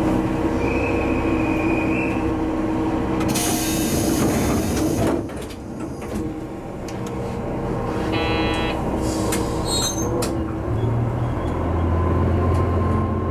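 Diesel railcar's engine idling at a station, with a loud hiss of compressed air about three seconds in and a short electronic chime near eight seconds. Near the end the engine's low drone grows louder as it is throttled up.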